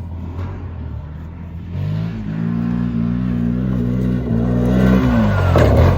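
Engine of a 1000-class off-road machine on a fast time-trial lap. It revs up about two seconds in and holds high revs, then sweeps past close with the pitch dropping sharply near the end.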